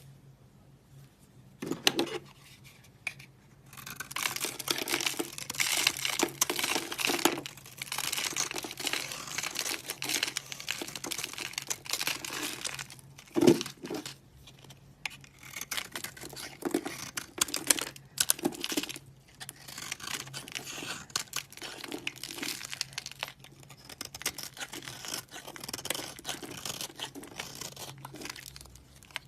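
Dry soap being cut, scraped and crushed by hand, making crisp crackling crunches in uneven bursts. There is a sharp knock about halfway through.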